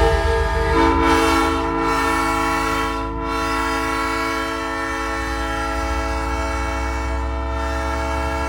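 Nathan Airchime P3 train horn on a big rig sounding one long, steady chord blast, with more notes joining about a second in.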